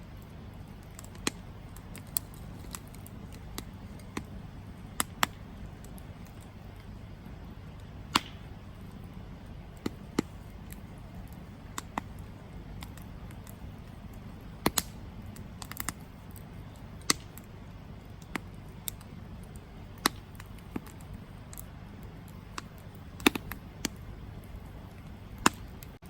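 Campfire crackling: burning wood gives irregular sharp pops and snaps over a steady low rumble.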